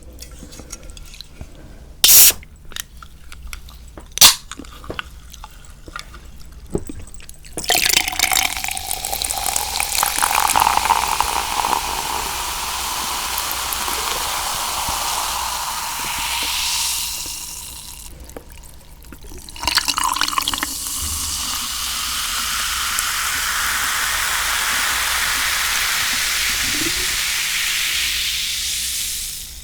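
Two sharp knocks, then liquid pouring steadily in two long runs, with a short pause between them a little past the middle.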